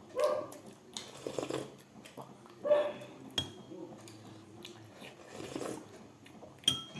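Close-up eating sounds: biting and chewing on food, with scattered clicks. A dog gives two short pitched whines, one at the start and one near the middle.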